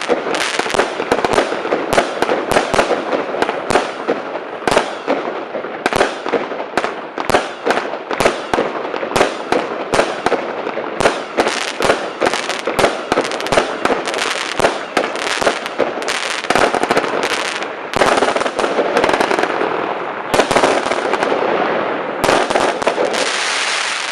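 A 100-shot fireworks cake firing shot after shot in quick succession: sharp launch and burst reports, several a second, over continuous crackling.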